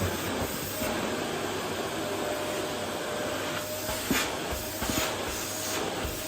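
Vacuum cleaner running steadily on a wooden floor: an even rushing noise with a faint steady whine, and a couple of light knocks in the second half.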